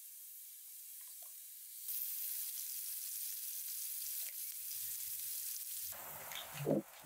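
Sliced carrots frying in oil in a skillet over a wood fire: a steady sizzling hiss, louder from about two seconds in. Near the end, louder uneven thumps join in.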